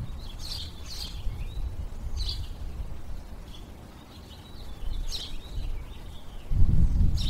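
Small birds chirping in short high calls, one every second or so, over a low rumble that grows heavier near the end.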